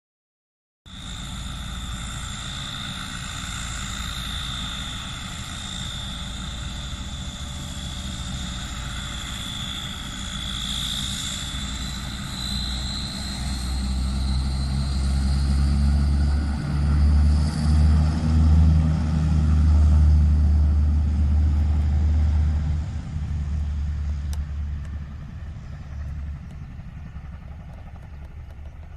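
Twin Rolls-Royce Dart RDa-10/1 turboprops of a YS-11: a high, steady turbine whine over a propeller drone. The sound starts abruptly about a second in, the whine creeps up in pitch midway, and the drone builds to its loudest in the second half before fading toward the end.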